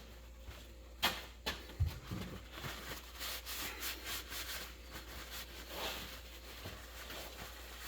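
Gearbox parts being handled on a workbench: two light knocks and a low thud about a second in, then faint rubbing and scraping.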